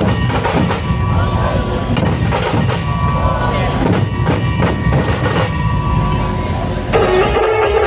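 Loud drumming with voices mixed in, with a couple of steady tones held over it; about seven seconds in it cuts abruptly to recorded music with plucked strings.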